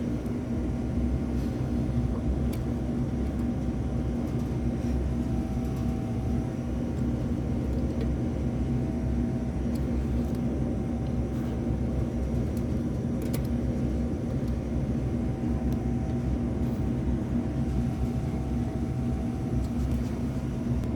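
A steady, even machine hum and rumble that does not change, with a faint constant tone in it.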